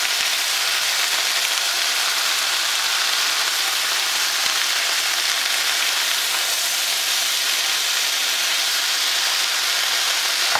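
Vegetables sizzling steadily in hot oil in a frying pan as they are stir-fried and tossed with a spatula.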